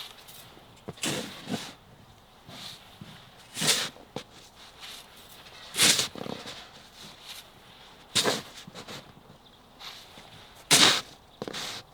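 Snow shovel scraping across the driveway, five short scrapes about every two to two and a half seconds, with lighter scuffs of snow and footsteps between them.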